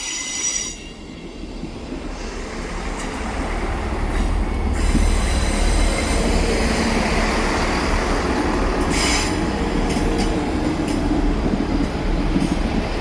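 Two coupled Class 158 diesel multiple units pulling into the platform. Their rumble grows over the first few seconds, then holds steady as the train runs in alongside.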